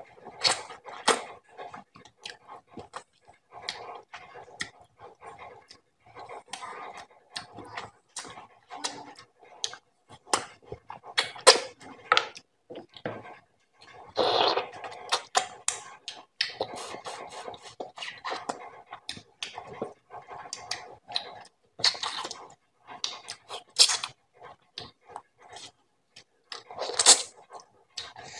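Close-miked mouth sounds of a person eating roti soaked in beef paya curry: irregular wet chewing, lip smacking and finger sucking, with clusters of sharp smacks and a louder stretch about halfway through.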